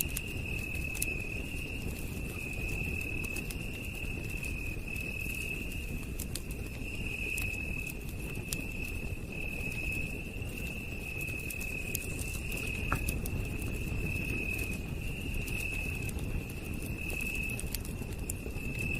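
A wood campfire crackling, with scattered sharp pops over a low rumbling hiss. Night insects keep up a steady, high-pitched trill throughout.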